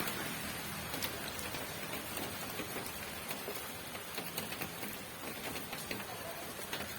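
Steady rain falling: a constant hiss with many separate drops tapping irregularly on a surface.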